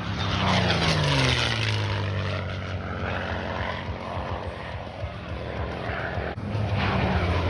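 Piston-engined propeller aircraft flying past, its engine note falling in pitch as it goes by in the first second or so. The drone carries on and swells again near the end.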